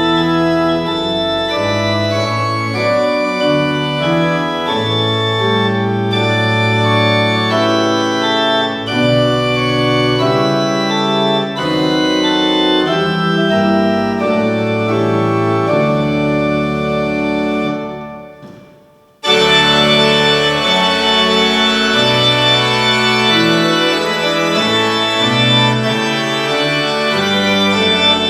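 Organ playing slow, sustained chords. About two-thirds of the way through it fades out, and after a brief gap a brighter organ passage starts abruptly.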